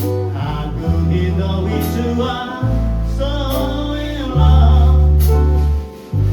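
Live jazz performance: a singer over piano accompaniment, with long held low notes changing every second or two.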